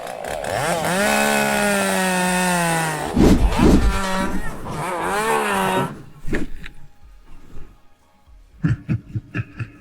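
Chainsaw engine revving, its pitch rising and falling for about five seconds before it cuts off, with heavy thumps partway through. A few faint clicks follow near the end.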